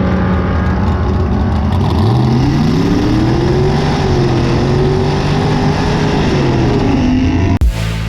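Car engine running steadily, then accelerating from about two seconds in, its pitch climbing and holding high before dropping near the end. It cuts off abruptly into music with a heavy beat.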